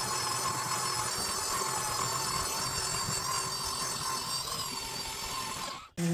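A power tool running steadily with a constant whine. Near the end it cuts off suddenly, and a different steady machine hum starts.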